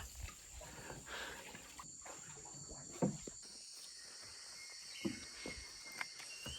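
Rainforest insects droning in steady high-pitched tones, with a few soft knocks now and then and a faint whistle near the end.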